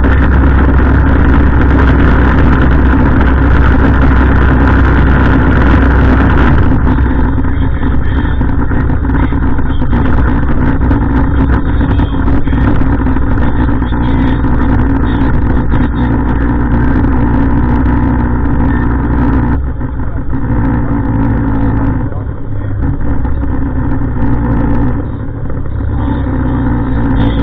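Heavy diesel garbage truck engine running loudly and steadily with a strong low hum, easing off a little about twenty seconds in.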